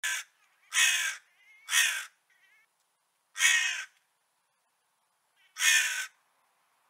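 A bird calling: five loud, harsh, rasping calls at uneven intervals, with a few much fainter calls between them.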